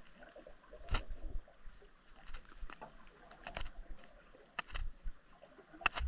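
Irregular sharp clicks and knocks, about five in a few seconds, over a faint low rumble, picked up underwater by a submerged camera's microphone.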